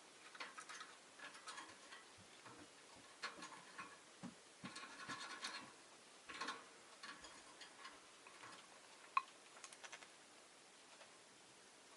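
Faint scratching and clicking from a peach-faced lovebird, with a few soft, brief chirps in clusters and one sharper tick about nine seconds in.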